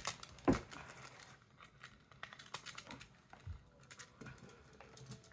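Scattered light clicks and taps of small objects being handled, with one sharper knock about half a second in.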